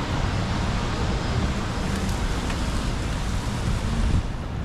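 Steady city traffic noise on a rainy street: a continuous low rumble with a hiss over it.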